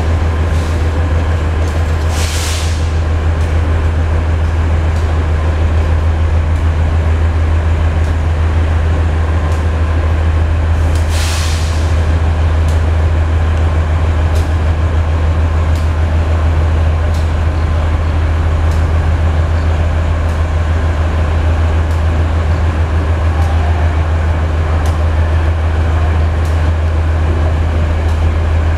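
Senja Utama Solo passenger train heard from inside the coach, rolling slowly into a station: a steady low hum and rumble, with faint regular wheel clicks about every second and a half. Two short hisses of released air, typical of train air brakes, come about two and eleven seconds in.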